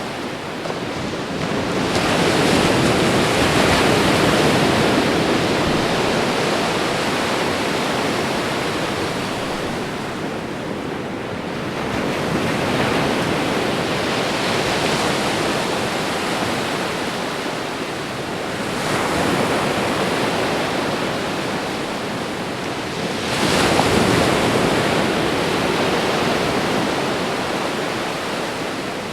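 Ocean waves breaking as surf, a continuous wash that swells four times as waves come in, each surge rising quickly and fading over several seconds; the strongest comes a little past the middle and near the end.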